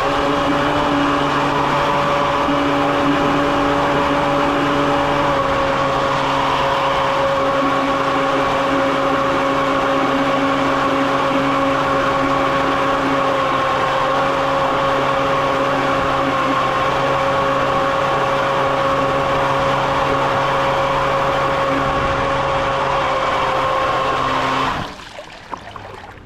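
A motor running at a steady speed with an unchanging hum, cutting off suddenly near the end.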